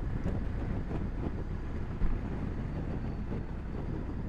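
Honda Africa Twin DCT's parallel-twin engine running steadily while being ridden, with one short knock about two seconds in.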